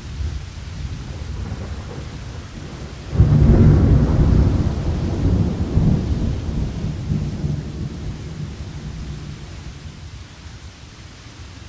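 Thunderstorm with steady rain and low rolling thunder. About three seconds in, a loud thunderclap breaks in suddenly and rumbles on for several seconds, slowly fading.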